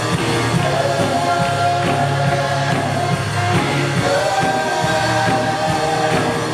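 Live contemporary worship music: a band playing while a group of voices sings held notes.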